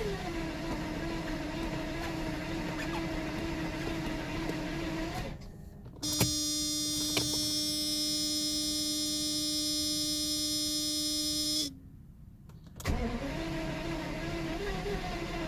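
1992 Mercedes 600SEL's V12 cranking on the starter without catching, a steady droning whir; the owner puts the no-start down to a lack of ignition. About five seconds in the cranking stops and a steady humming tone with a high ring sounds for about six seconds, then the cranking starts again about thirteen seconds in.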